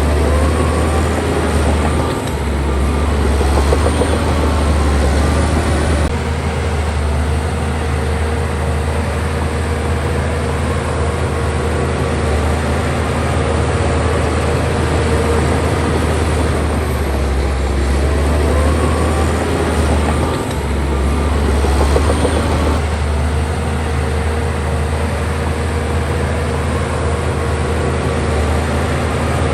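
Bulldozer's diesel engine running steadily under load with a deep drone. About two seconds in, and again about twenty seconds in, the engine note briefly dips, then a few seconds of clatter and a rising whine come in before it settles back to a steady drone.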